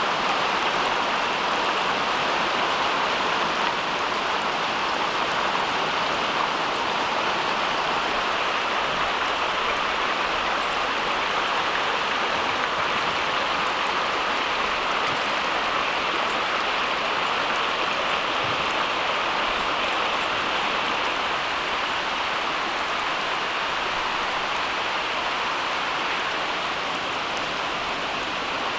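Steady, even rushing of water, like rain or running water, with no breaks or separate drops standing out.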